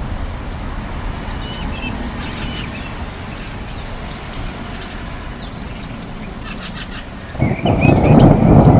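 Forest ambience with a steady low rumble and birds chirping now and then. About seven seconds in, a loud roll of thunder breaks in and becomes the loudest sound.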